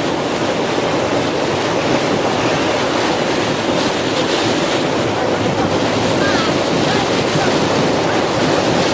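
Strong wind rushing over the microphone, with the sea's waves as a steady rushing noise beneath.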